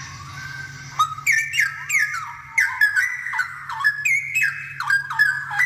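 Straw-headed bulbul (cucak rowo) singing in full voice: after a softer first second, a fast run of loud, ringing whistled notes that slide up and down, over a steady low hum.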